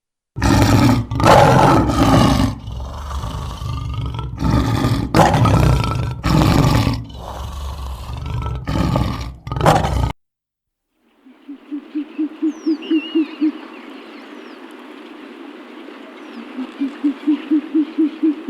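Big cat roaring: a series of loud roars and grunts that stops suddenly about ten seconds in. After a second of silence a frog calls in two runs of quick pulsed croaks over a steady background hiss, with faint bird chirps.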